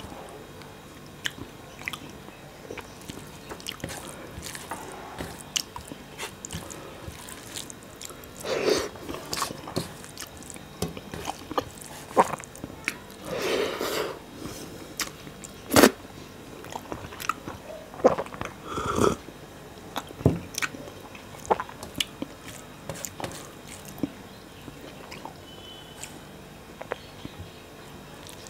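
A man chewing mouthfuls of rice and fish curry eaten by hand, with many short wet mouth clicks and smacks; a few louder smacks come and go, the sharpest about sixteen seconds in.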